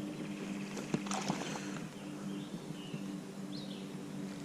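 Quiet handling noise on a fishing kayak: a light knock about a second in and a few small knocks over a steady low hum, with faint short high chirps near the middle.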